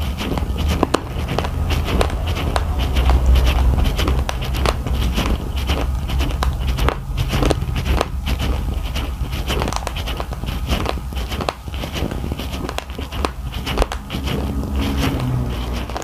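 Close-miked crunching and chewing of a mouthful of raw, uncooked rice grains: a dense, irregular run of sharp little cracks as the hard grains break between the teeth, over a steady low rumble.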